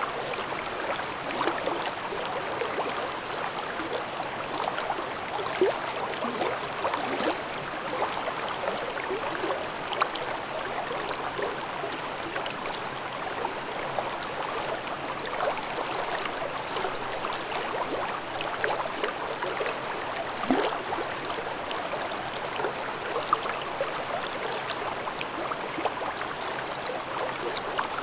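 Mountain brook babbling over rocks: a steady rush of water with many small splashes and gurgles.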